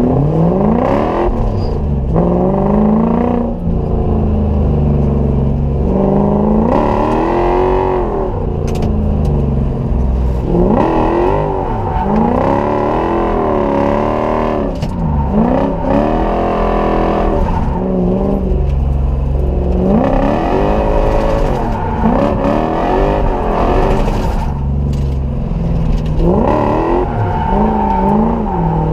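Lexus 1UZ V8 engine in a Mazda B-series mini truck revving hard, its pitch climbing and dropping again and again, a new rise every one to three seconds, as in drifting.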